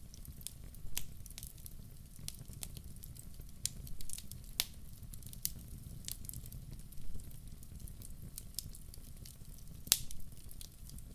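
Wood logs burning in a fireplace: irregular crackles and sharp pops over a low, steady rumble of the flames, with one loud pop about ten seconds in.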